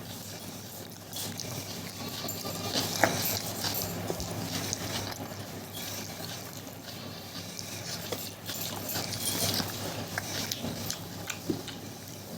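Close-miked chewing and wet mouth smacking of a person eating curry and noodles, with irregular clicks and slurpy squelches over a low steady hum.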